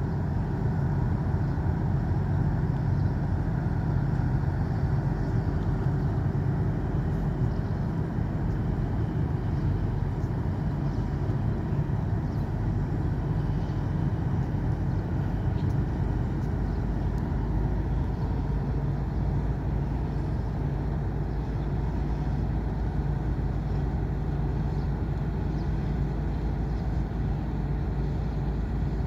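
Steady low engine rumble with a constant hum, changing slightly in the low end about halfway through.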